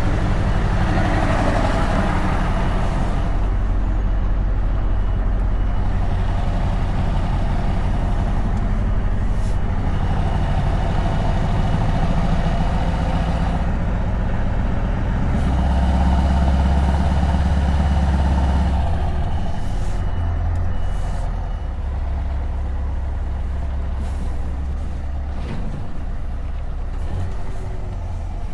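Scania S truck engine running through open exhaust pipes while driving, its low, deep note rising and falling with the throttle. It is loudest about two-thirds of the way through, then eases off.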